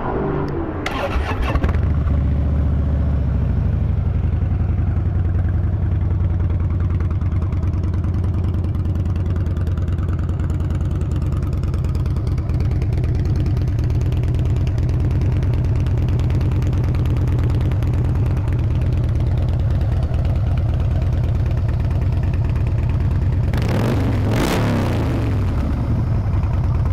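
A 2015 Harley-Davidson Softail Breakout's 103-cubic-inch fuel-injected Twin Cam V-twin, breathing through Vance & Hines Big Radius pipes, starts about a second in and idles steadily. Near the end it is revved once and settles back. The exhaust is nice and loud.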